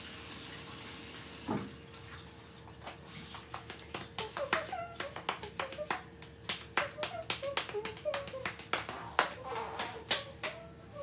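A steady hiss cuts off with a knock about a second and a half in. After it come irregular sharp clicks and taps of kitchen items being handled, with a few short squeaks.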